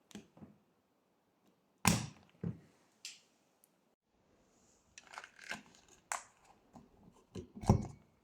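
Tools and metal parts being handled and set down, heard as irregular knocks and clicks. A loud one comes about two seconds in, then a busier run of clicks in the second half, loudest near the end.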